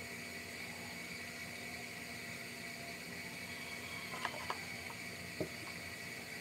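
Steady background hiss with a faint constant hum, and a few small clicks or taps partway through.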